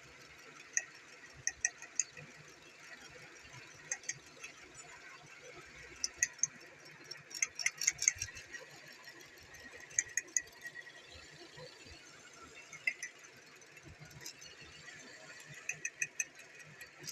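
Scattered sharp clicks and clinks, mostly in quick clusters of two to five, of small hard parts or tools being handled during work on a car.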